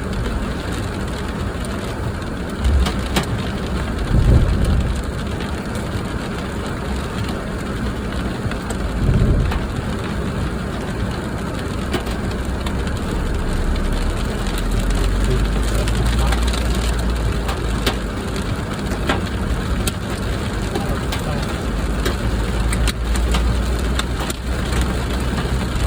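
Heavy rain beating on a car with its engine running, a steady rushing noise over a low engine rumble, pricked by scattered sharp knocks. Louder low bumps come about 4 and 9 seconds in.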